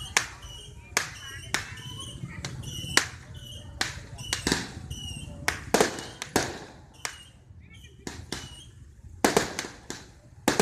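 Firecrackers and fireworks going off in quick, irregular sharp bangs, a dozen or more of them, with short high-pitched chirps in between.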